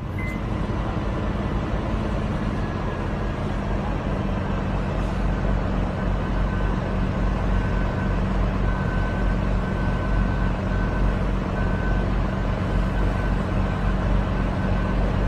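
Steady road and engine noise of a moving car heard from inside the cabin, a constant low rumble with a low drone.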